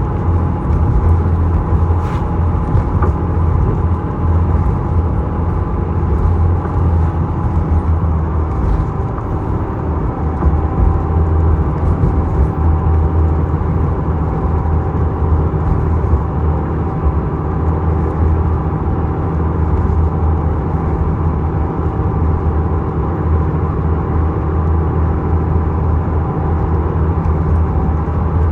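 Small passenger ferry's engine running at a steady drone: a strong low hum with steady higher tones over it, unchanging throughout.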